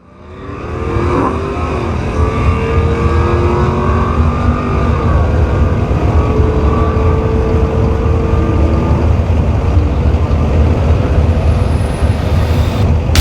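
A GM LS V8 truck engine running with a heavy, rough rumble. Its pitch rises at the start, then holds fairly steady with small rises in revs.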